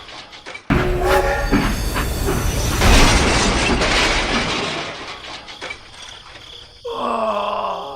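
Train running, with a horn sounding near the end.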